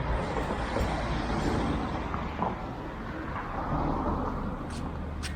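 Street traffic passing on a busy road: a steady mix of engine rumble and tyre noise from cars and larger vehicles, with a sharp click near the end.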